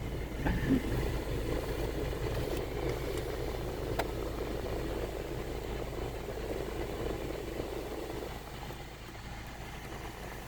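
Steady low hum of an idling vehicle engine that eases off slightly near the end, with a single sharp click about four seconds in.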